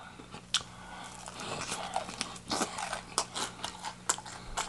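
Close-miked chewing of fried chicken: irregular crisp clicks and wet mouth smacks, about three a second.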